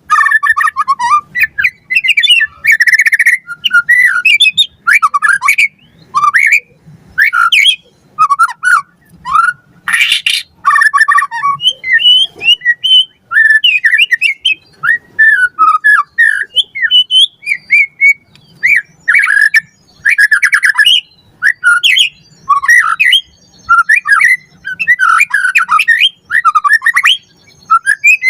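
White-rumped shama (murai batu) singing a fast, varied run of whistles and rising and falling glides, mixed with harsh buzzy notes and short gaps between phrases.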